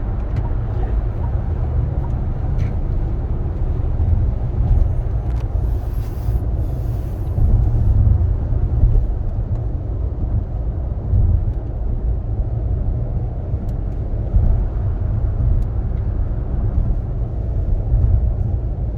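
Cabin noise of a SsangYong Torres SUV on the move: a steady low road-and-tyre rumble with engine drone, heard from inside the car.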